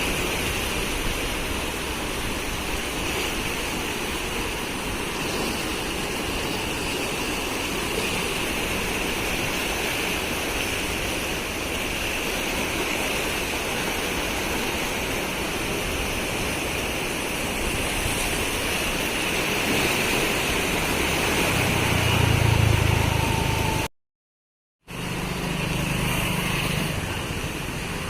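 Rain-swollen river water rushing steadily. Near the end a low engine hum rises briefly, and then the sound cuts out for about a second.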